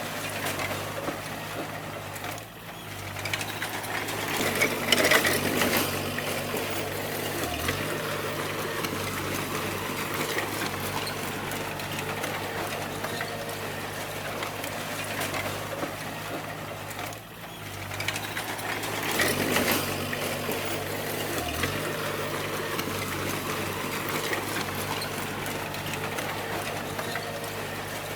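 D20 bulldozer's diesel engine running steadily as the dozer works. Twice the sound dips briefly and then comes back louder for a couple of seconds, about four seconds in and again near nineteen seconds.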